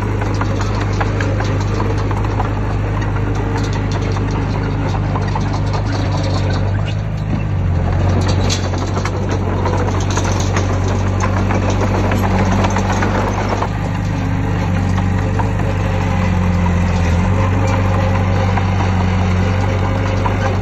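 Heavy diesel engine of earthmoving machinery running steadily, its pitch shifting a couple of times as the load changes, with scattered metallic clanks.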